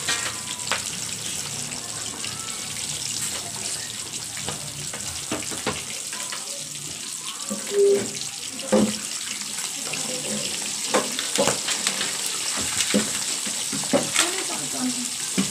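Chicken pieces deep-frying in hot oil: a steady sizzle with scattered crackles and pops. About eight seconds in, a battered piece goes into the oil and the sizzle briefly gets louder.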